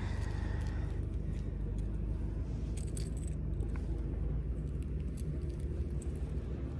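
Steady low hum of a boat motor running, with a few faint light clicks around the middle.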